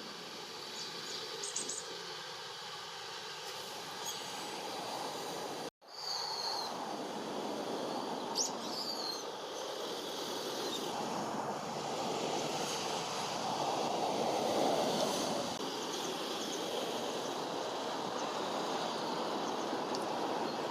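A few short, shrill calls of a brown-eared bulbul, several of them falling in pitch, over a steady rushing background noise.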